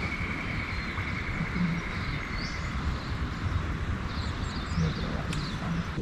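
Outdoor bush ambience: short bird chirps scattered through, over a steady pulsing insect trill that fades out in the first couple of seconds, with a constant low rumble underneath.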